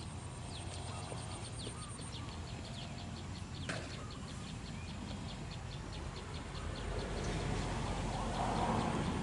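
A bird chirping, a rapid string of short high notes, over steady outdoor background noise. A single click comes a little under four seconds in, and a broad noise swells near the end.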